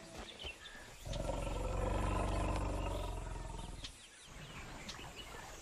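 A bull Asian elephant in musth gives one low, rumbling call. It starts about a second in and lasts about three seconds.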